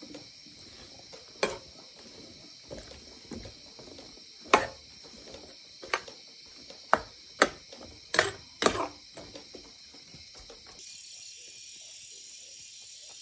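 Steady high-pitched insect drone, with about eight sharp, irregularly spaced knocks or strikes in the first nine seconds, then only the drone.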